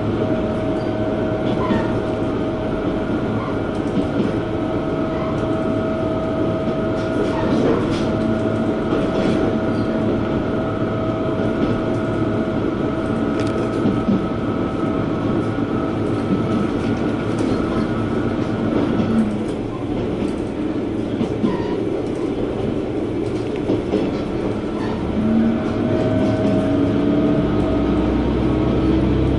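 Diesel railcar running along the line, heard from inside the car: steady wheel and rail noise with light clacking over rail joints. Near the end the engine note starts to rise as the railcar powers up.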